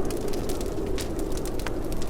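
Wood fire crackling in a fireplace: scattered sharp pops and snaps over a steady low rush of burning.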